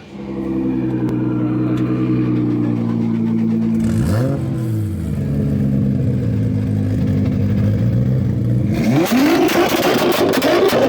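Car engine idling, blipped once about four seconds in, then revved up near the end with a rapid crackle.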